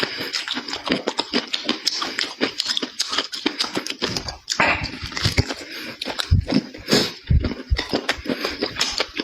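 A person chewing food close to the microphone, with many quick irregular wet smacks and clicks of the mouth.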